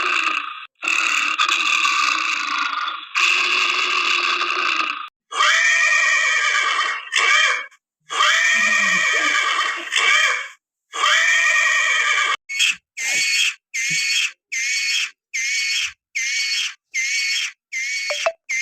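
A run of animal calls: two long, harsh calls, then several wavering pitched calls, then a quick series of short repeated calls, about one every half second.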